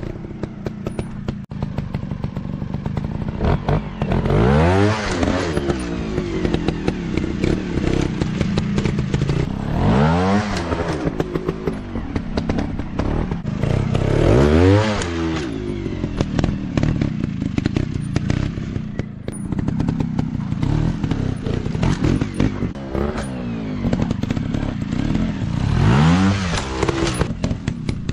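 Off-road dirt bike engines running, revving up and dropping back four times, with a rapid crackling under the engine note.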